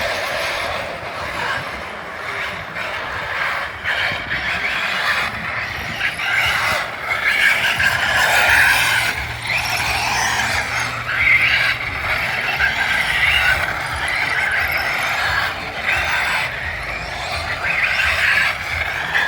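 Electric radio-controlled cars driving, their motors and gears whining in a pitch that rises and falls with the throttle.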